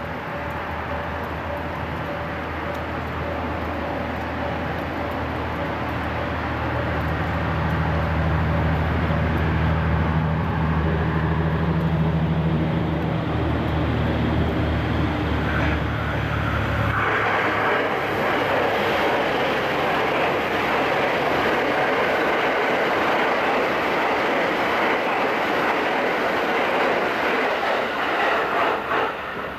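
JR Thunderbird limited express electric train running through the station. A low, steady hum builds as it approaches. About 17 seconds in this gives way to a louder, even rushing and rail noise as the cars pass, which wavers and drops away near the end.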